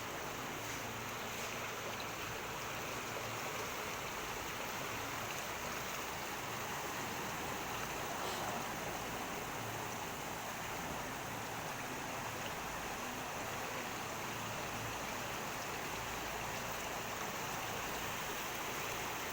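Floodwater of the Narayani River rushing past as a steady, even noise.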